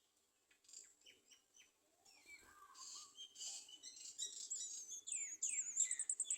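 Small birds chirping and twittering in high-pitched notes, sparse at first and busier from about two seconds in. Near the end come several quick downward-sliding calls and a rapid trill.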